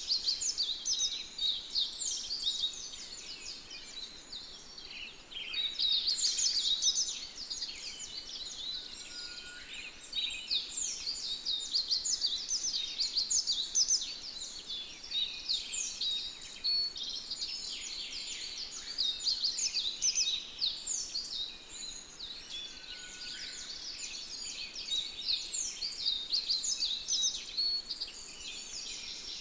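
Small birds chirping and twittering in a dense, continuous chorus of quick high chirps, busier in some stretches than others.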